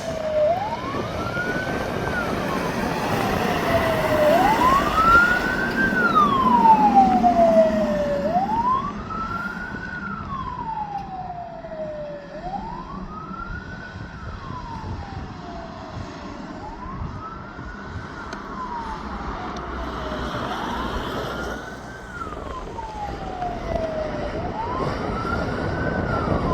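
Emergency vehicle siren wailing: a tone that climbs quickly and falls back more slowly, repeating about every four seconds, over road vehicle noise that swells and is loudest several seconds in.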